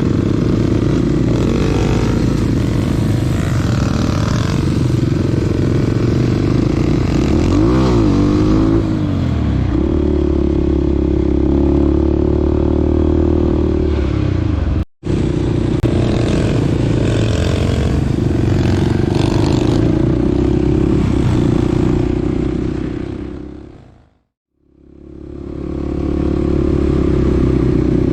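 Small dirt bike engine running while riding, its pitch rising and falling as the throttle is worked. The sound cuts out sharply about halfway through, then fades out and back in near the end.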